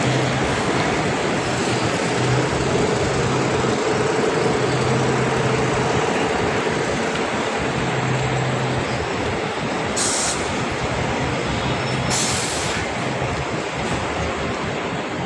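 Steady rumbling noise of a rail vehicle running, with a low hum that comes and goes and two short hisses about ten and twelve seconds in.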